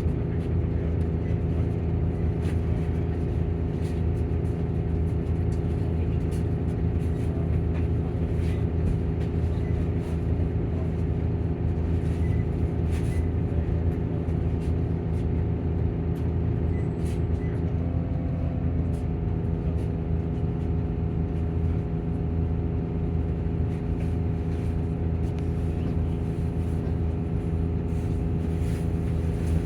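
Volvo coach's engine and cooling fan running steadily: a low drone with an even hum of several steady tones above it. A little past halfway the tones briefly waver, then settle again.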